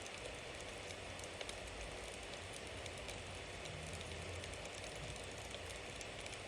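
Bonfire burning: a steady hiss of flames with frequent small crackles and a few sharper pops of the wood.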